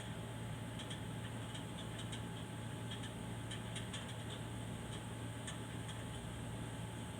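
Light, irregular clicks, a dozen or so scattered over several seconds, over a steady low electrical hum.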